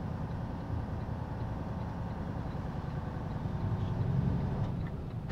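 Semi-truck's diesel engine running low and steady, heard from inside the cab, swelling slightly about four seconds in.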